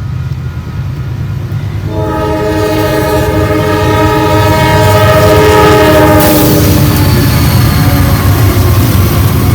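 Locomotive air horn sounding a chord, one long blast from about two seconds in to about seven seconds, over the low rumble of an approaching train that grows louder as it nears.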